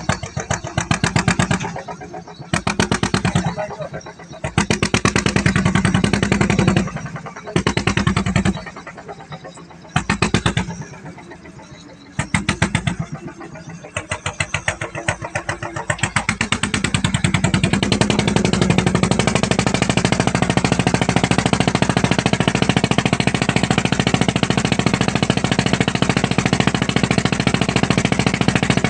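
Wooden klotok riverboat's inboard engine running with a rapid chugging beat. It swells and fades several times in the first half, then runs steady and loud from about halfway on.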